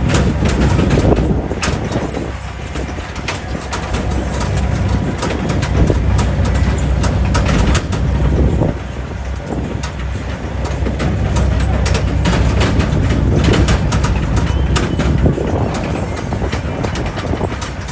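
Tractor engine running steadily as it drives, with frequent rattling and knocks from the ride over rough ground.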